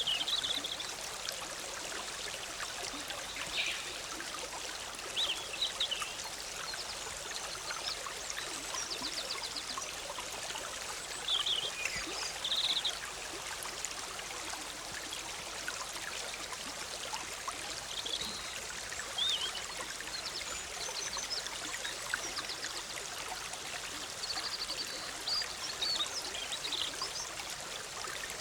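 The Big Sur River, a forest stream, bubbling and trickling steadily, with short high bird chirps scattered through it now and then.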